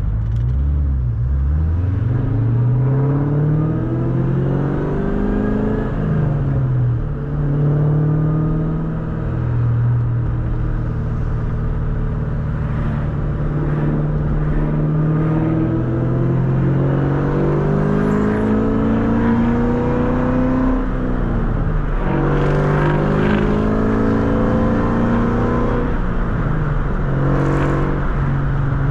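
2003 Mustang SVT Cobra's supercharged 4.6-litre V8 running under way, heard from the driver's seat. Its pitch climbs under acceleration and drops back several times, then holds steady near the end.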